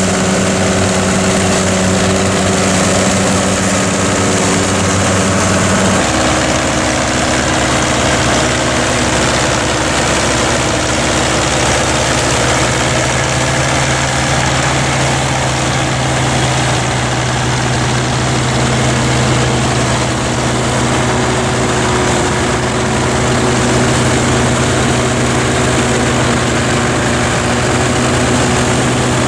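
Massey Ferguson tractor diesel engine running steadily while working a forage harvester. About six seconds in the engine note changes abruptly to a different steady note.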